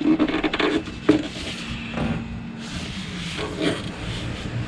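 Scraping, rubbing and light clicks of hands and tools working a fuel filter and its fittings back into place, with a few sharper knocks in the first second or so.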